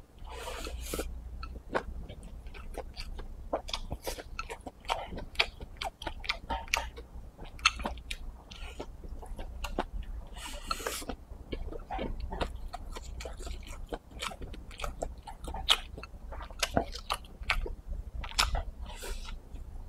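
Close-up mouth sounds of a person biting and chewing pickled-pepper chicken giblets with rice: a steady run of wet clicks and crunches, with a few short rushes of noise near the start, about halfway and near the end.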